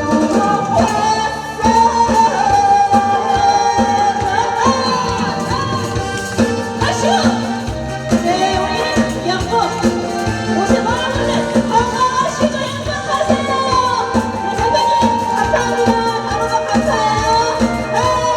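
Korean trot song with a singer over a loud backing track, the melody gliding and holding long notes over a steady beat.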